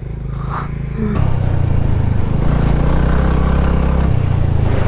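Single-cylinder motorcycle or scooter engine running, getting louder about a second in and then running steadily under load.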